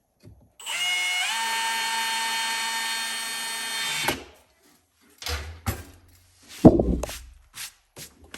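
Power drill running for about three and a half seconds, its pitch stepping up once just after it starts, then stopping. A few sharp knocks and one loud thud follow.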